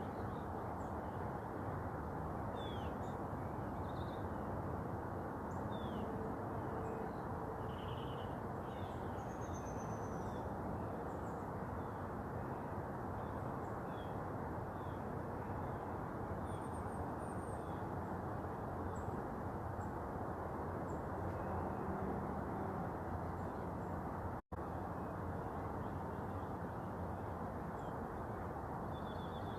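Birds chirping and calling, short scattered notes, over a steady background noise. The sound cuts out completely for a moment about three-quarters of the way through.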